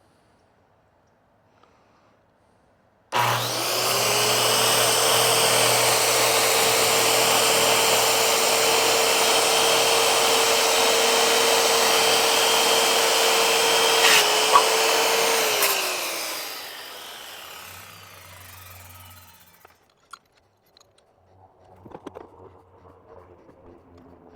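Electric power saw starting about three seconds in, running with a steady whine while it cuts wood for about twelve seconds, then switched off, its motor winding down with a falling pitch. A few faint knocks follow near the end.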